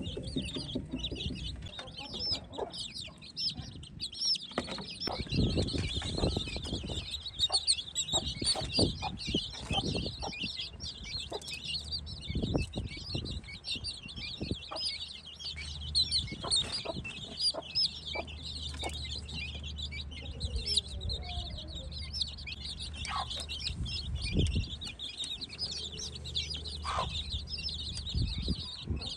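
A group of baby Aseel chicks peeping continuously in many rapid, high cheeps, with scattered knocks and rustles from handling.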